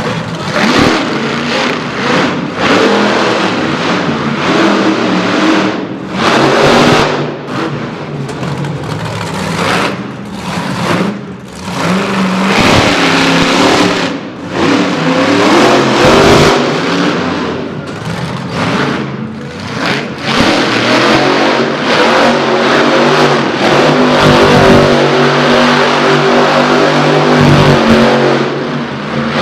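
Monster truck engines revving hard and falling back again and again, loud throughout.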